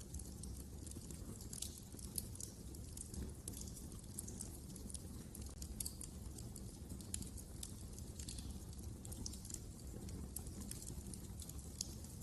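Fire burning in a fireplace, crackling with many small irregular pops over a low steady rumble.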